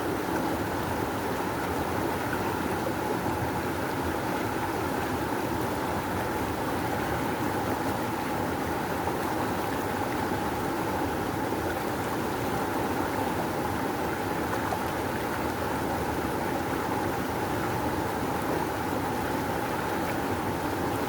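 Rushing river water flowing strongly, a steady, even rush of noise.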